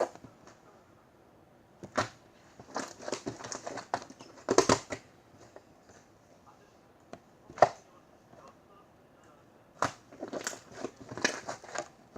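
Cupcake slime being squeezed and pressed by hand, giving irregular clusters of crackling clicks and small pops with short quiet gaps, and one sharper pop about halfway through.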